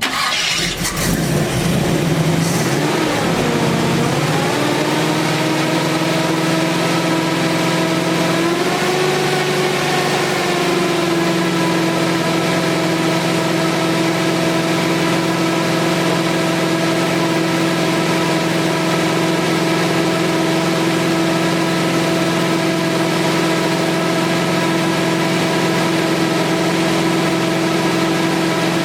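Chevy C10 truck engine catching and running. Its speed wavers and dips in the first few seconds, climbs again near ten seconds, then is held steady at a raised speed, as for a new camshaft's break-in run.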